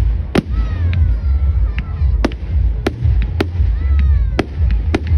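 Fireworks going off: a run of sharp bangs, one or two a second, with thin whistling tones sliding in pitch between them, over a steady low rumble.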